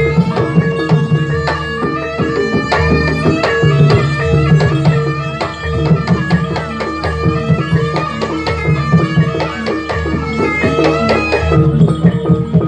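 Jaranan gamelan accompaniment: hand drums beating a busy, fast rhythm over struck gong-chime tones and steady low beats.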